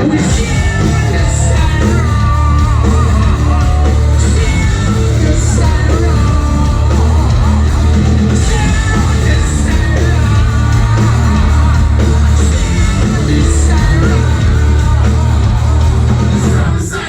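Live ragga-metal band playing loud, with heavy bass and drums under a sung or toasted vocal line, recorded from the crowd in a large hall.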